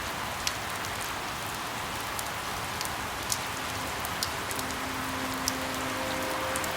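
Steady rain, a constant hiss with individual drops spattering sharply here and there. Faint held tones come in about halfway through.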